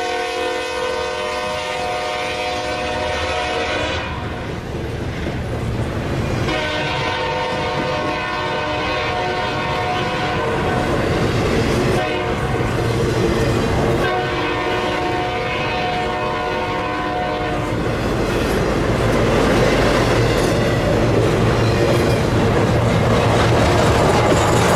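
Nathan K5H five-chime air horn on a Norfolk Southern SD70M diesel locomotive, sounding in several blasts of a few seconds each with short gaps between them. The horn then stops and the train's wheels and diesel engines rumble steadily past, with a clickety-clack.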